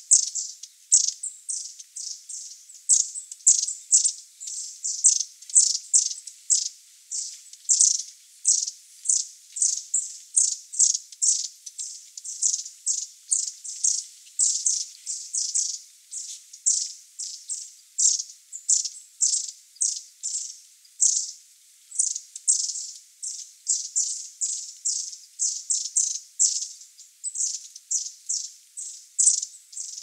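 Varied tit giving short, high chirps in a rapid, uneven series, about three or four a second.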